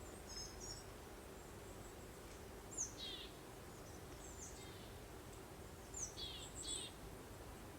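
Small songbirds giving short high chirps and quick descending trills in a few scattered bursts, the clearest near the middle and a cluster toward the end. Under them runs a soft, steady hiss of breeze.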